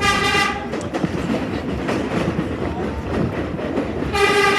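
Subway train horn blowing one steady note: one blast ending about half a second in and another starting near the end. In between, the R33 Redbird car's wheels rumble and clatter on the rails.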